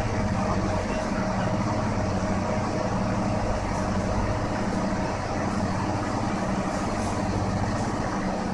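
Steady low hum of railway machinery with a constant mid-pitched tone, as an EF81 electric locomotive creeps slowly along the platform track during a locomotive change.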